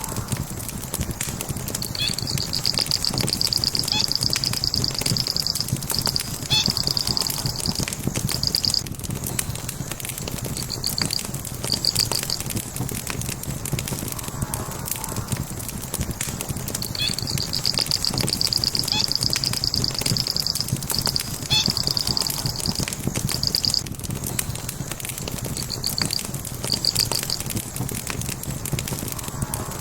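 Wood fire crackling and popping steadily. A high, rapidly pulsed chirping trill comes in phrases of several seconds, starting about two seconds in and again at about seventeen seconds, the same pattern repeating as in a loop.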